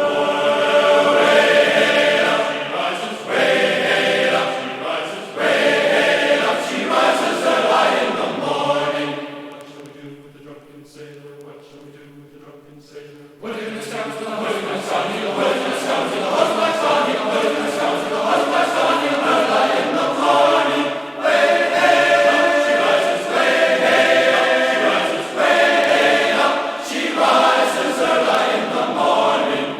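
Choral music: a choir singing sustained, chant-like harmonies. The music drops to a quieter passage about nine seconds in and swells back up at about thirteen seconds.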